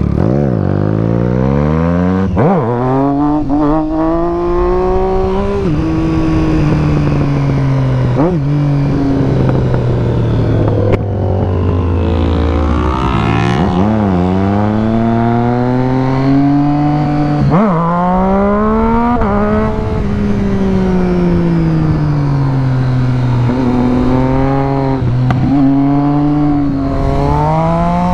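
Motorcycle engine running hard, its pitch climbing and dropping sharply again and again as it shifts up through the gears, with stretches where the revs fall away as it slows.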